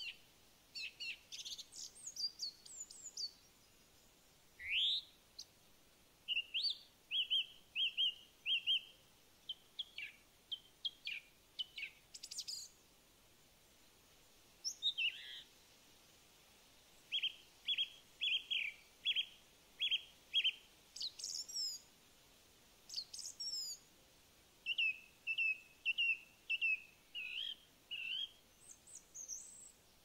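Songbirds singing: runs of five or six quick, short chirps on one pitch, repeated every several seconds, with higher, sweeping twittering phrases in between.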